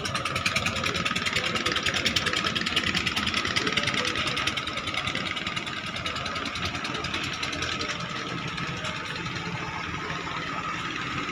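Klotok boat's diesel engine running with a rapid, even beat, growing quieter after about five seconds.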